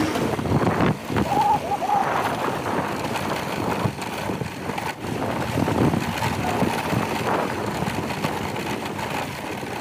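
Motorcycle running under way on a rough road, its engine mixed with uneven noise, with a brief wavering chirp about a second and a half in.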